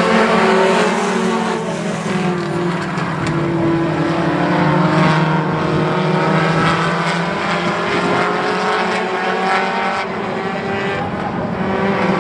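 Four-cylinder Lightning 4 race cars running at speed around a short oval: several engines at high revs at once, their pitches rising and falling as the cars pass.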